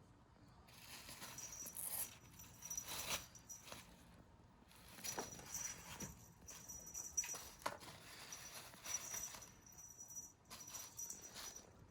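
Rustling and light taps and patters of cat play: a cat scrabbling and pouncing after a toy, with a faint high tone that comes and goes.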